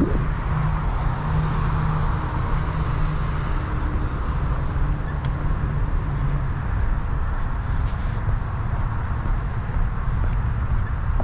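Steady road-traffic noise: a low rumble with a faint engine hum, swelling in the first few seconds as a vehicle passes and then settling back.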